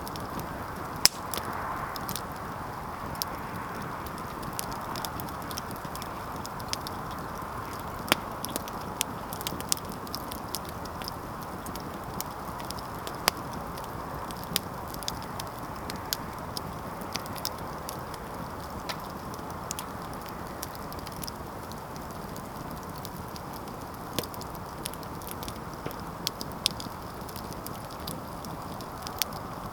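Campfire crackling: irregular sharp pops and snaps over a steady hiss, with a few louder cracks.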